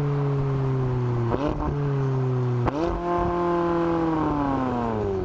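McLaren 570S 3.8-litre twin-turbocharged V8 exhaust note, its pitch sinking steadily. It is broken by a sharp crack about a second and a half in, and another just under three seconds in, after which the revs jump up and then sink away again. The pattern is typical of downshifts.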